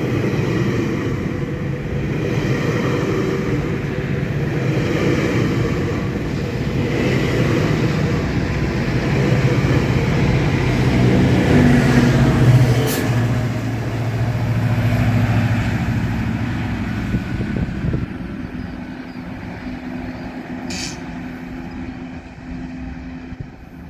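GO Transit diesel commuter train pulling out, its engine drone building to a peak about halfway through, then fading and dropping off sharply near the end as it moves away. Two brief sharp clicks come through, one a little past the middle and one near the end.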